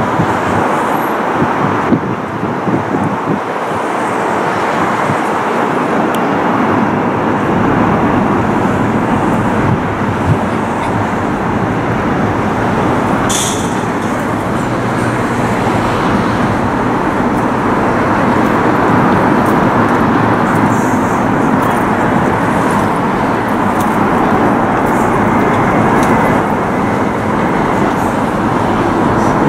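Docklands Light Railway electric train running into the station and slowing to a stop, a steady rumble that builds after the first several seconds, with a brief high sound about halfway through.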